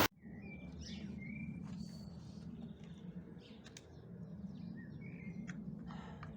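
Small birds chirping and calling in short, scattered notes over a faint, steady low hum.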